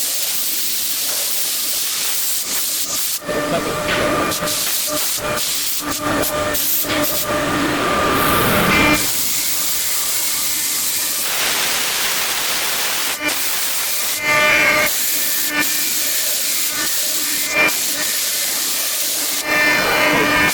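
5-axis CNC machine running: a steady hiss with a faint whining tone and frequent short clicks and knocks.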